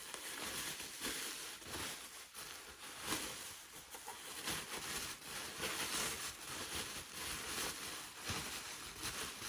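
Packaging rustling and scraping as a shipping box's padding is handled, in irregular strokes.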